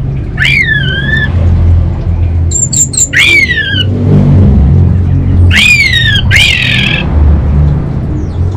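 Orange-headed thrush calling loudly, four sharp call notes that each rise quickly and then sweep downward, a few seconds apart, with a few short high chips between them. A loud low rumble runs underneath throughout.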